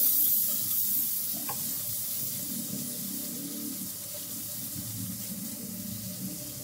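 A masala of ground spices and onion-cashew paste sizzling in hot ghee in a wok while a silicone spatula stirs it: the bhunao stage of roasting the spices. The hiss is loudest at the start and settles to a steady sizzle.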